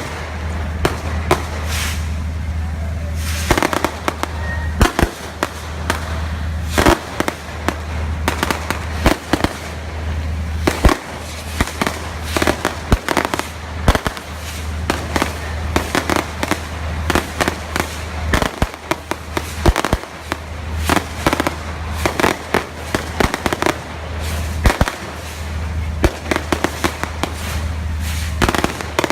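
Fireworks going off in quick, irregular succession: a near-continuous run of sharp cracks and bangs, over a steady low hum.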